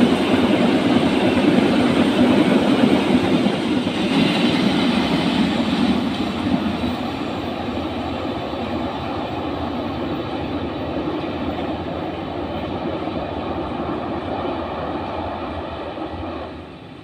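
Passenger train's coaches rolling past on the rails, the rumble fading as the train pulls away and falling away sharply near the end.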